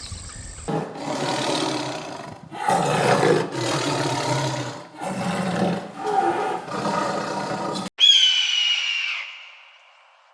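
A large animal roaring in about five long, rough calls, one after another. It is cut off suddenly near the end by a different animal's high-pitched call that slides down in pitch and fades away.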